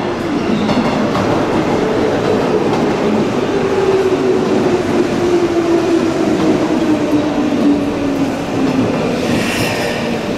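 Electric commuter train rolling into the platform and braking: a steady rumble of wheels on rail, with a motor tone that falls slowly in pitch as the train slows, and a brief higher squeal near the end.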